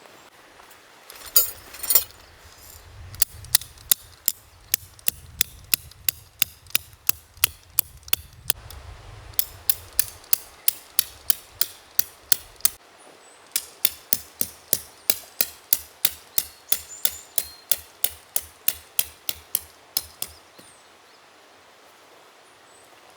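Tent pegs being driven into the ground with a hammer: two long runs of quick, evenly spaced strikes, about three a second, with a short break between them, after a couple of louder knocks.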